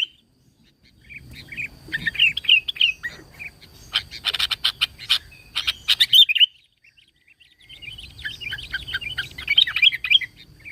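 Sooty-headed bulbul (kutilang) singing in three bursts of rapid chattering phrases, with short pauses between them.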